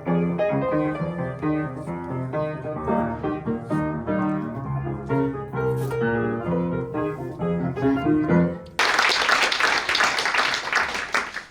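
Solo piano playing a short interlude, several notes at once in a flowing melody. About nine seconds in it cuts off suddenly and audience applause follows.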